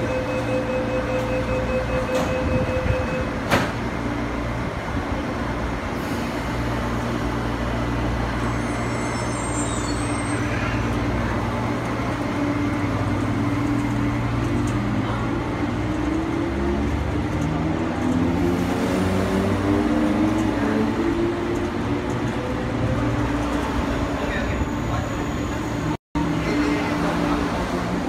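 Hong Kong MTR East Rail Line MLR electric train departing a station. Door-closing warning beeps sound for about three seconds, followed by a sharp thump as the doors shut. From about halfway through, the traction motors whine, rising in pitch as the train gathers speed out of the platform. The sound cuts out for an instant near the end.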